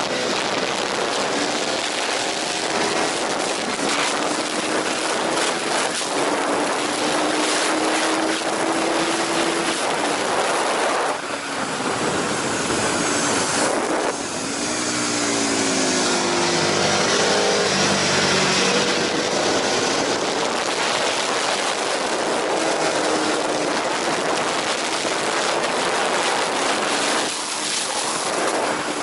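Aprilia RSV 1000 Factory's V-twin engine at racing speed on a circuit, its pitch climbing steadily through long pulls and dropping away briefly a few times as the throttle is shut and gears change, with a loud rush of wind over it.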